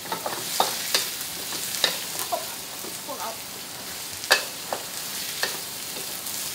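Chopped aromatics frying in hot oil in a steel wok, sizzling steadily as they are cooked toward golden brown. A spatula stirs them, scraping and knocking against the wok every second or so, with the sharpest knock about four seconds in.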